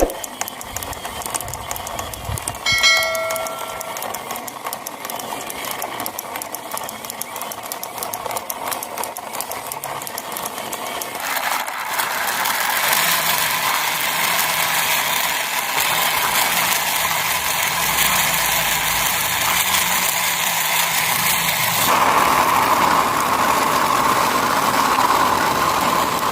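Vehicle running sound with a short horn toot about three seconds in, then a steady rattling run that gets louder about twelve seconds in and changes in tone again near the end.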